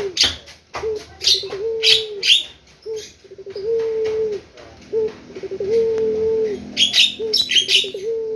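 Puter dove (Barbary dove) cooing in its song, again and again: each phrase is a few short notes running into a long held low coo. Small birds' high chirps break in now and then, most of them about 7 seconds in.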